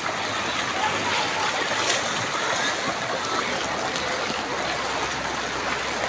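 Steady rush of water from heavy rain and floodwater on a waterlogged street.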